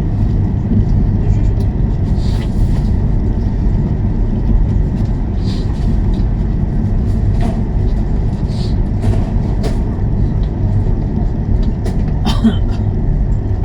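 Steady low rumble inside a CR400BF-Z Fuxing high-speed train running on the line, with faint scattered clicks and ticks over it.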